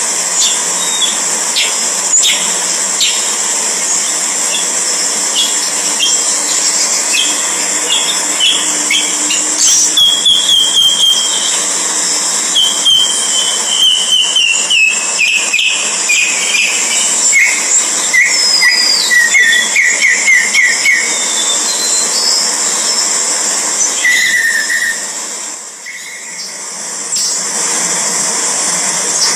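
Bird calls: runs of quick, high chirps, some stepping down in pitch, mostly in the middle of the stretch, with a short call later on, over a steady high hiss.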